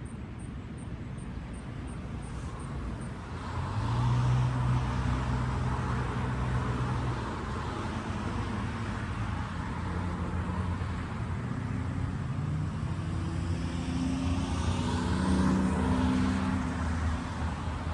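Engine noise passing by. It grows suddenly louder about three seconds in, and a second swell with shifting engine pitch comes near the end.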